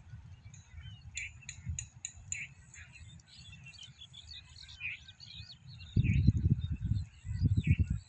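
Small birds chirping in many short calls over a low rumble. About six seconds in, a loud, irregular low rumbling comes in gusts and drowns them out.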